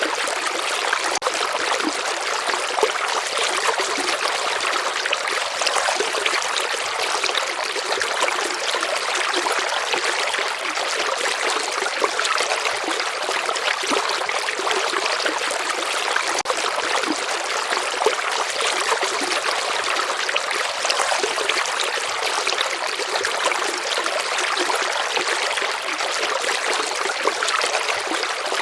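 River water flowing steadily: a continuous, even rushing and trickling with no pauses and little deep rumble.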